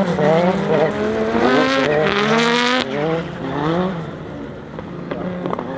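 Audi Sport quattro S1 E2's turbocharged five-cylinder engine revving hard in repeated rising pulls, cutting off sharply about three seconds in. It then runs quieter, with a couple of short sharp cracks near the end.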